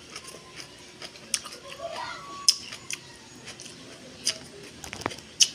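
A person chewing a mouthful of kimchi, with a handful of sharp, separate wet clicks and smacks spread through.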